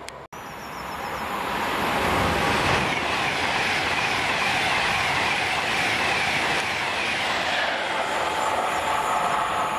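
Class 390 Pendolino electric train passing at speed: the rush of wheels and air builds over the first two seconds, then holds steady and loud.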